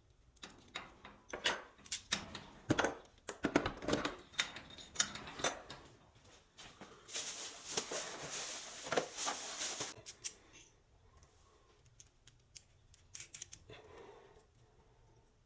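Tools and metal parts of a garage door opener clicking and knocking irregularly as the old drive pulley is worked off, with a denser scraping stretch from about seven to ten seconds in, then only a few faint clicks.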